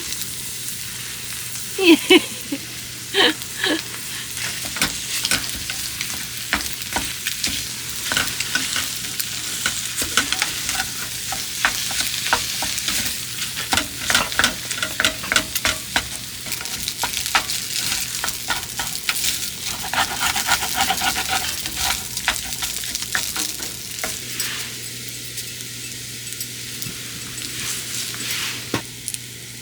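Food frying and sizzling in a pan, with frequent crackles and the clicks and scrapes of a utensil stirring it.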